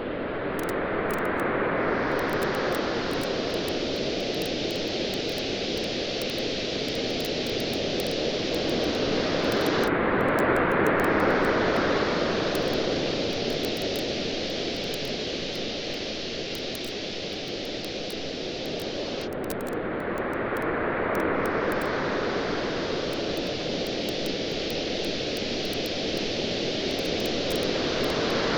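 Waves washing up on a beach, swelling and falling back about every ten seconds, over the steady pops and crackle of a wood bonfire.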